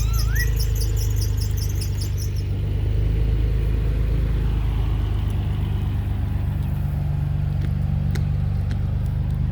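1993 Nissan 300ZX twin turbo's 3.0-litre twin-turbo V6 idling steadily. A rapid high chirping in the first two seconds stops about two and a half seconds in.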